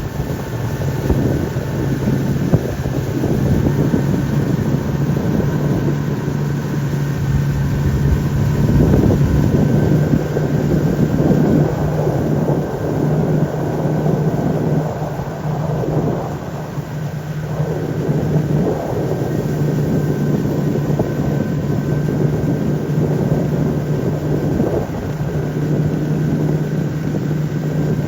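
An engine running steadily at an even pitch, with wind buffeting the microphone.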